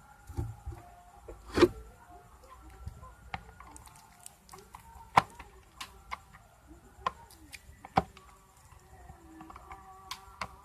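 Scattered clicks and knocks of tools and metal parts as an electric iron is taken apart, irregular, with a few sharper knocks.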